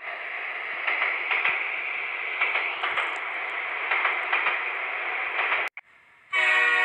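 Cartoon train sound effect: a steady hissing rush that cuts off suddenly a little under six seconds in. Near the end, a train whistle starts sounding.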